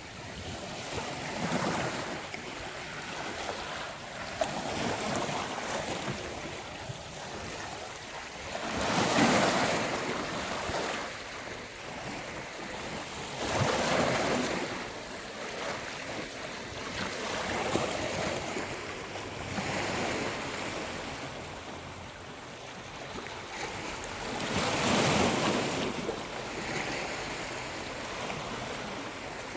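Sea waves breaking and washing up a beach in a continuous rolling surf. Bigger breakers swell up and fade about nine seconds in, again around fourteen seconds, and once more late on.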